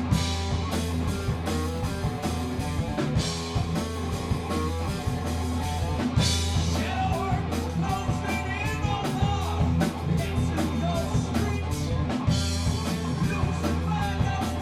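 Rock band playing live in rehearsal: electric guitar, bass and drum kit going steadily and loudly throughout.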